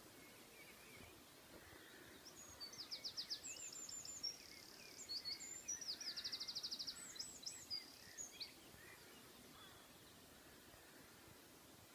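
A songbird singing one long, high-pitched song of fast trills and buzzy notes, starting a couple of seconds in and stopping around eight and a half seconds, over faint distant birdsong.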